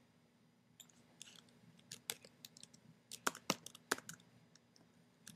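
Computer keyboard typing: a quick, irregular run of key clicks lasting about three seconds, as a search query is typed.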